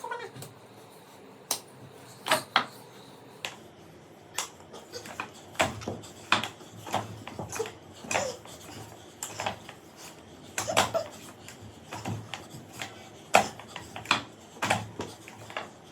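Irregular sharp clicks and taps, about one or two a second.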